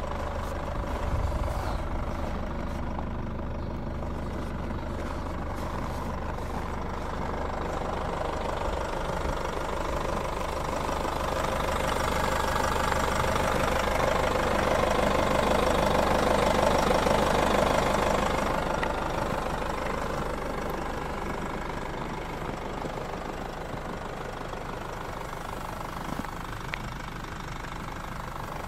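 Vehicle engine idling steadily, with a louder engine sound that swells and fades around the middle.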